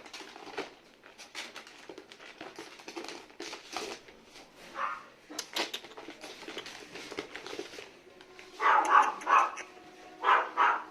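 Two-month-old French Bulldog puppy giving short, high yapping barks in two bursts near the end, after several seconds of light clicks and scuffling.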